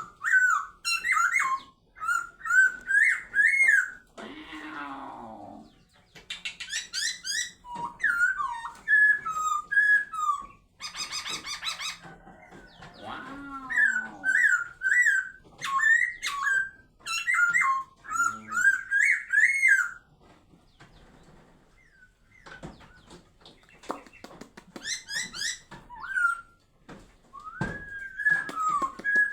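Caged songbird singing in bursts of loud, sharp whistled notes that flick rapidly up and down, each burst lasting a second or two with short pauses between, and a few rougher, lower calls mixed in.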